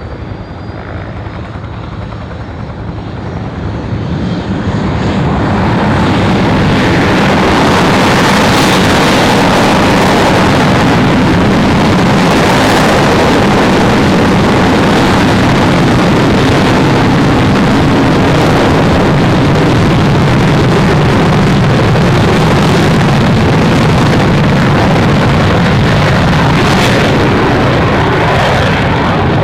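Aircraft engines at takeoff power: the noise builds over the first few seconds, then holds as a loud steady roar.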